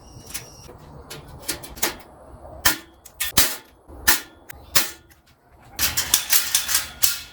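A series of sharp knocks and clicks from tool work, irregularly spaced, with a quick run of strikes about six seconds in.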